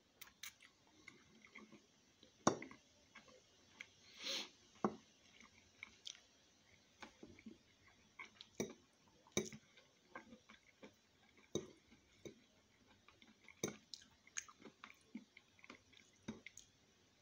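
Close-up chewing and wet mouth sounds of a man eating spaghetti, with many short, sharp smacks and clicks at irregular intervals.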